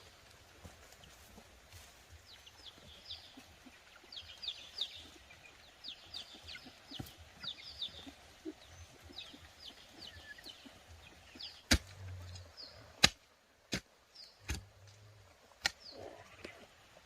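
Short high chirps in quick clusters, like small birds calling, then from about twelve seconds in five or six sharp knocks a second or so apart.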